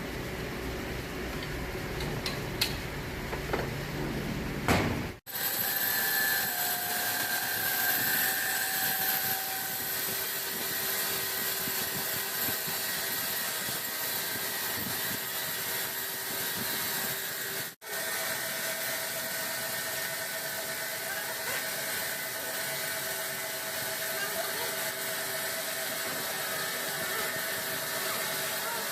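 Large sawmill machinery running: a steady mechanical hiss with several held whining tones and a few sharp clicks in the first seconds. The sound breaks off abruptly twice, about five seconds in and again about two-thirds of the way through.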